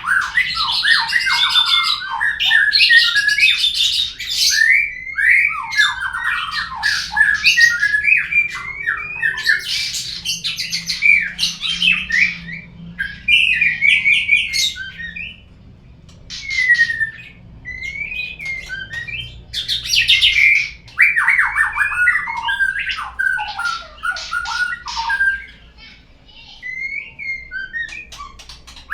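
White-rumped shama (murai batu) song, the kind used as a lure track to get a caged bird singing: fast, varied phrases of whistles, rattles and harsh squawky notes, with a few short pauses.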